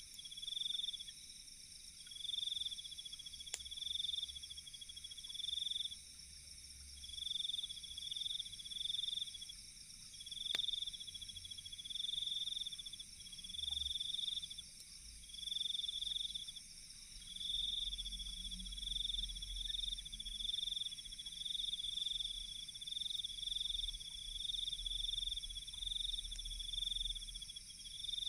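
Night insects chirping in repeated pulsed trills, each about a second long with short gaps, over a steady high-pitched insect drone. Two sharp crackles from the campfire come a few seconds in and about ten seconds in.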